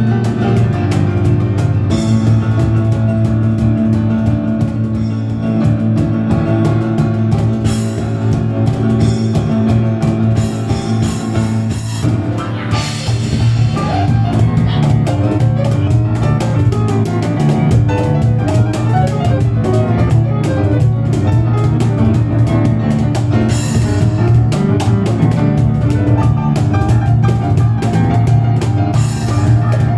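Live piano and cajon duo playing a loud instrumental passage: piano chords and bass notes over dense, driving cajon strikes.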